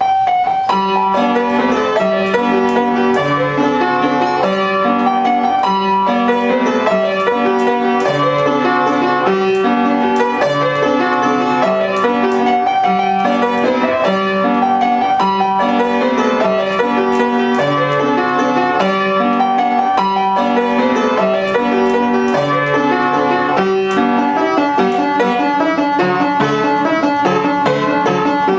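A waltz played on piano: a repeating pattern of bass notes and chords with a melody above it, at a steady pace.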